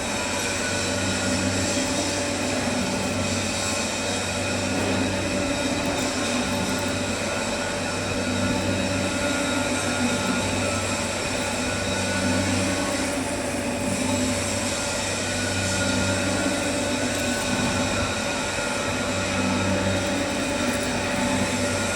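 Lathe running: a steady machine hum with several constant whining tones.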